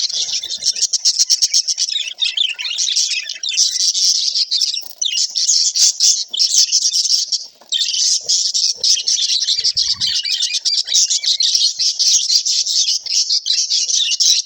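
Budgerigars chattering and warbling in a continuous stream of rapid chirps and squawks, with short pauses about five seconds and about seven and a half seconds in.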